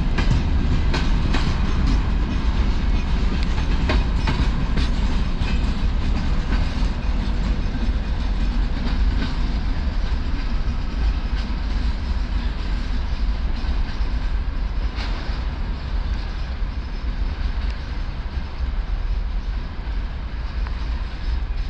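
Freight wagons behind a ChME3 diesel shunter rolling past and away: wheels clicking over rail joints for the first few seconds, then a steady rumble that slowly fades as the train recedes.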